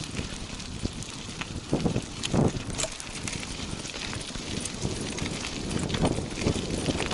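Three Eurohounds running in harness pulling a sulky: their footfalls and the sulky's wheels rolling over the trail, a steady running noise with scattered ticks and a few louder thumps about two seconds in.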